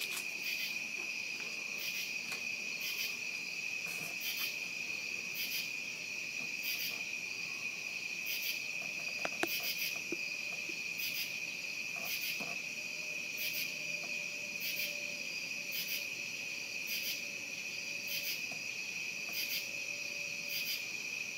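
Night insects, crickets among them, chirping in a steady chorus: a continuous high trill with a second, higher chirp repeating about once every two-thirds of a second.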